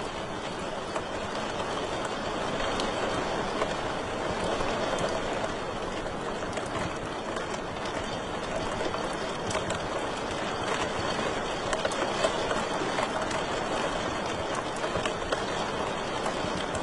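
Wood fire crackling in a fireplace: a steady hiss with frequent small, irregular pops and snaps, a few sharper ones about twelve seconds in.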